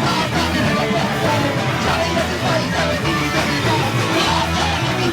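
Punk rock band playing live: loud, dense electric guitar, bass and drums without a break.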